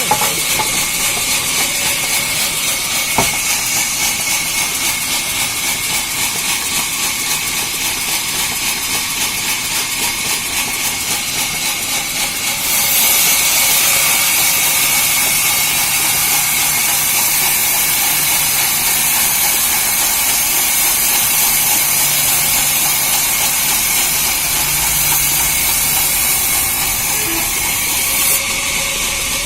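Sawmill saw machinery running with a steady high hiss, which grows louder about 13 seconds in and drops back shortly before the end.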